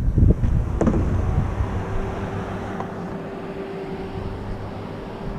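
A single sharp clank about a second in, then a steady, even drone holding one pitch and slowly fading.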